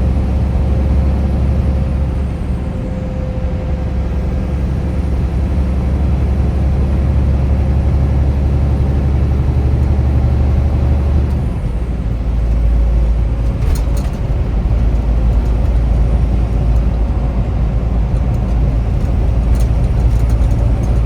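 Steady road and engine rumble heard from inside a car moving along a highway, with the low rumble shifting slightly about halfway through.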